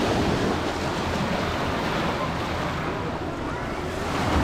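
Sea waves and wind buffeting the microphone, a steady rushing noise.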